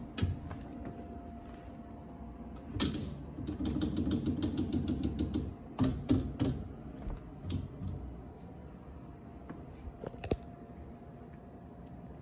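Mechanical clicks and knocks: a sharp knock, then a fast run of clicks for about two seconds, then several more knocks.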